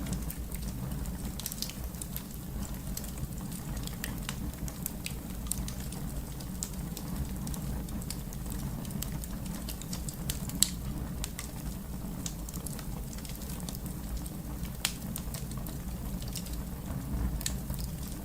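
Wood fire crackling, with irregular sharp pops and snaps over a steady low rumble of burning; one pop, about ten seconds in, is louder than the rest.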